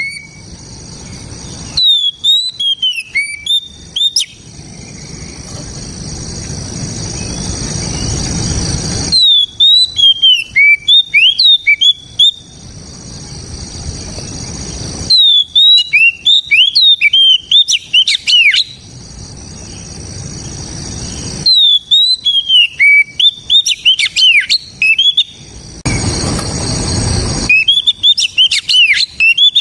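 Oriental magpie-robin (kacer) singing loud, rapid phrases of sharp whistled notes. The phrases repeat every five or six seconds, with a hiss filling the pauses between them.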